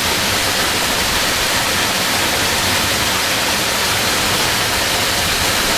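Waterfall heard from close by: a loud, steady rush of falling water.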